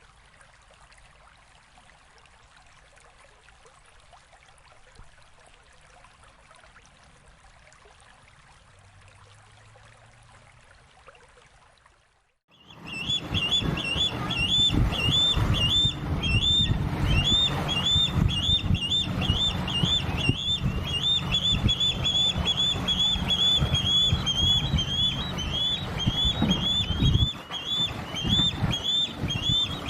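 Faint ambient hiss, then from about twelve seconds in a bird calling a long run of high, repeated chirps, two to three a second, over loud low background noise.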